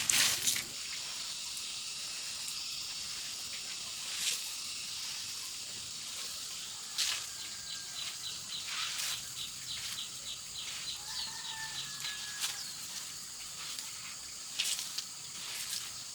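Outdoor rural ambience: a steady high-pitched hiss, with a quick run of short chirps in the middle and a few brief rustles.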